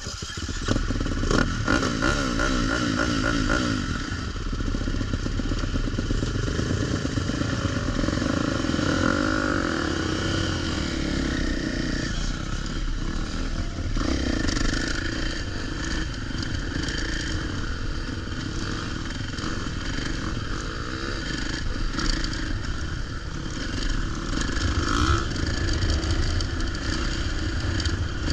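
Motocross dirt bike engine running hard under riding, its pitch rising and falling repeatedly as the throttle is worked, with a hiss of wind and track noise.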